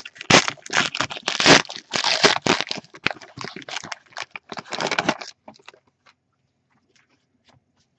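Foil wrapper of a trading-card pack crinkling as it is handled and opened, for about five seconds, then a few faint ticks before it goes quiet.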